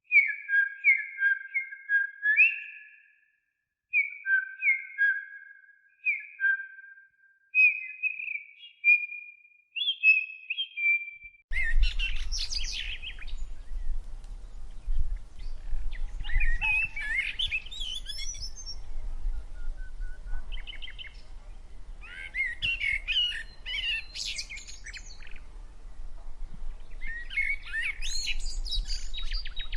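Songbird recordings. First, clear whistled notes in short repeated phrases. About 11 seconds in, this cuts to a different recording of a bird singing quick, complex warbling phrases every few seconds over a steady low background rumble.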